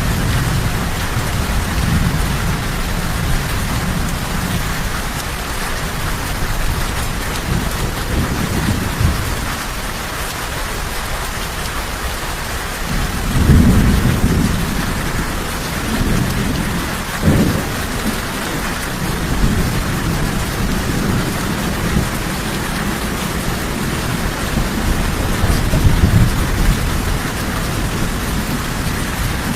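Steady rain with thunder rumbling now and then, the loudest rumble about halfway through.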